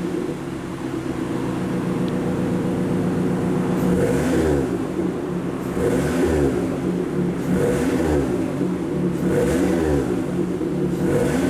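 Toyota Alphard AGH30W's 2.5-litre four-cylinder engine idling through a one-off rear muffler with titanium Veloce quad tailpipes, then revved in short blips about every two seconds, five times, each rising and falling back to idle.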